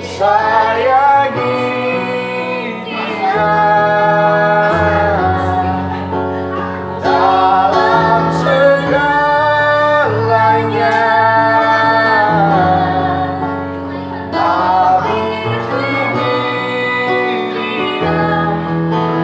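A child singing a slow song with long held notes over backing music with steady bass notes.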